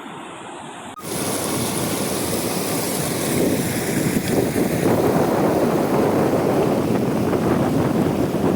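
Steady rushing roar of a waterfall, cutting in suddenly about a second in and growing slightly louder.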